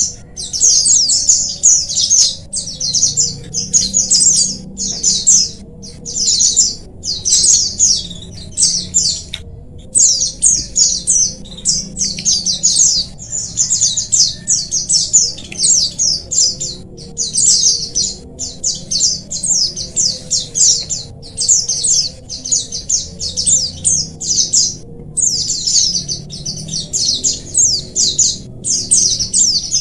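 A flock of white-eyes (pleci) twittering together: many small birds' high, fast chirps overlapping without a break.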